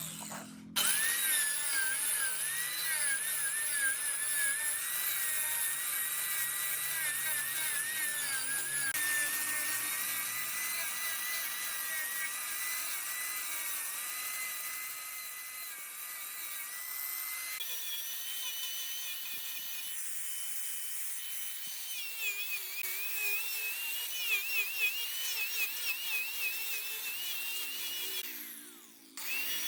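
Wood lathe turning, with a tool cutting into the spinning wood and giving a high, wavering whine whose pitch keeps shifting. It starts abruptly just after the start and drops out briefly near the end.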